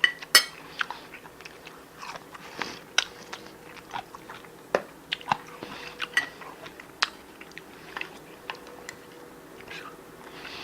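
A person biting and chewing food close to the microphone: irregular crunches and sharp little clicks, a few a second.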